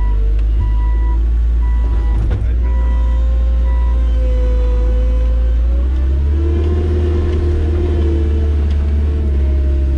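Skid steer loader engine running under load while its reversing alarm beeps steadily, about one beep a second, as the machine backs up; the beeping stops about four seconds in, a knock sounds around two seconds in, and the engine note grows heavier near the end.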